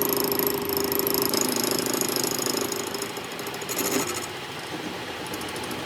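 Workshop machinery running with a fast, steady rattle and a hum, easing off and growing quieter about three seconds in.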